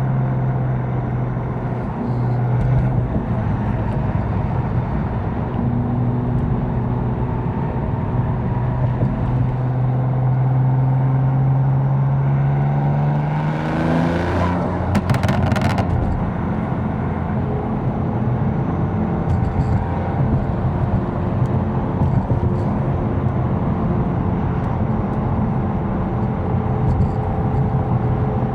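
Tuned 750 hp BMW M4's twin-turbo inline-six cruising with a steady drone. About halfway through the revs sweep up sharply, followed by a short burst of crackles, before it settles back into a steady run.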